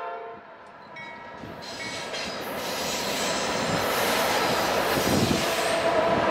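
Norfolk Southern diesel freight locomotive approaching: a horn chord cuts off about half a second in, then the train's rumble and wheel noise grow steadily louder as it nears.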